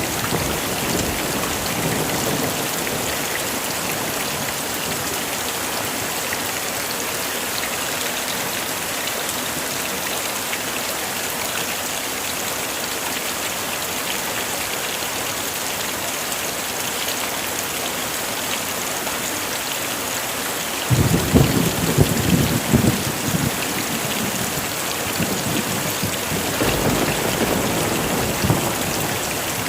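Heavy rain falling steadily. A sudden low rumble of thunder breaks in about two-thirds of the way through and lasts a couple of seconds, with a weaker rumble near the end.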